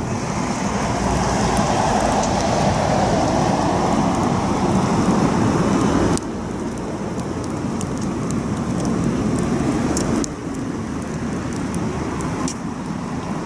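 Campfire burning: a steady rushing noise with scattered sharp crackles and pops from the burning wood. The sound drops abruptly twice, about six and ten seconds in.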